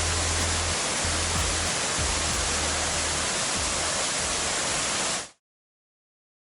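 Waterfall rushing with a steady roar of white water and a deep rumble underneath, cutting off suddenly to silence about five seconds in.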